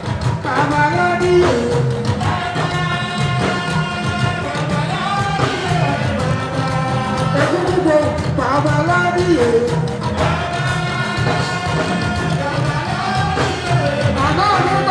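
Live fuji music: a lead vocalist sings long, gliding held lines over steady, dense percussion and bass.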